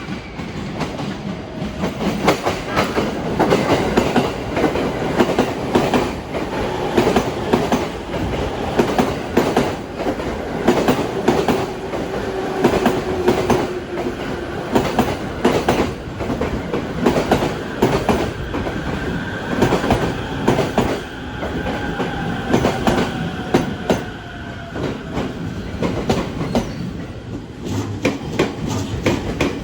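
Sobu Line electric train running over rail joints, its wheels clacking in a steady stream of repeated knocks as the carriages pass. A faint steady tone runs under the clacking, and one tone falls in pitch about two-thirds of the way through.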